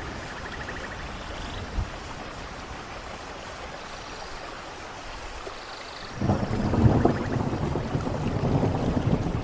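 Steady rain, then a rumble of thunder comes in suddenly about six seconds in and keeps rolling, much louder than the rain. Faint trilling animal calls sound now and then.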